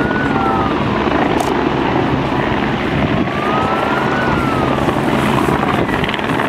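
A rescue helicopter running loud and steady, with an emergency vehicle's siren wailing up and down about every four seconds behind it.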